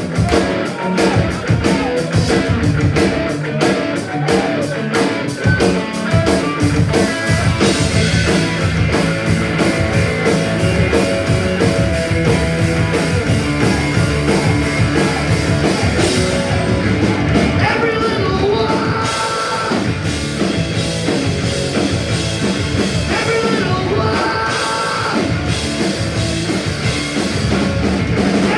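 Punk rock band playing live at full volume: distorted electric guitars, bass and fast drums.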